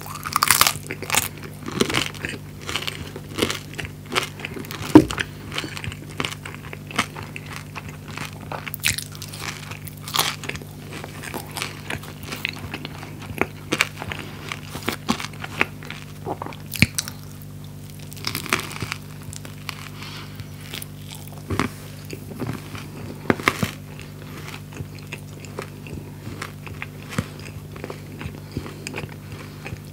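Close-miked eating sounds: crunchy bites and chewing of french fries and a fried-chicken pita sandwich, with irregular sharp crunches throughout and the loudest about five seconds in. A faint steady low hum runs underneath.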